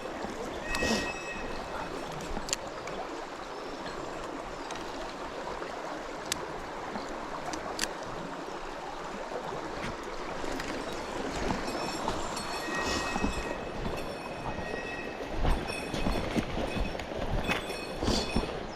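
Small mountain stream running steadily, with a few sharp clicks and, in the second half, short stretches of faint whirring.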